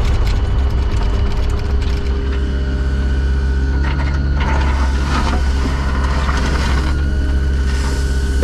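Diesel engine of heavy earthmoving equipment running steadily, with rapid rattling clicks in the first two seconds and bursts of scraping and crunching about four seconds in and again near the end.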